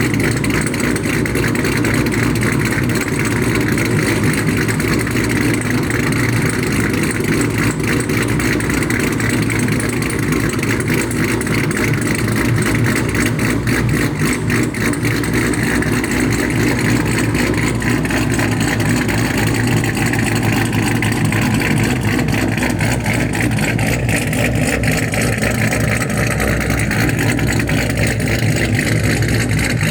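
Chevrolet Camaro SS V8 with a BTR Stage 2 camshaft idling steadily through long-tube headers and a 3-inch straight-piped exhaust without cats or mufflers.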